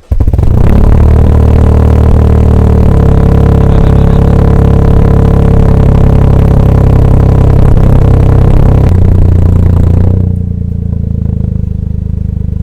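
Toyota GR Yaris's turbocharged 1.6-litre three-cylinder running loud and steady through a full 3-inch turboback exhaust with no catalytic converter or GPF. About ten seconds in it drops to a quieter, lower idle.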